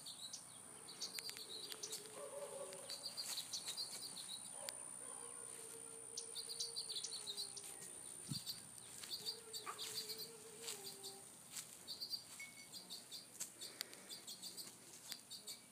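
Small songbirds chirping faintly in short, high, trilled phrases, repeated every second or two.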